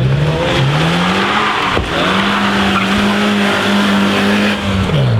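Rally car engine running hard: the revs climb twice in the first second and a half, hold high for a couple of seconds, then drop near the end as the driver lifts off. A steady hiss of tyre noise runs underneath.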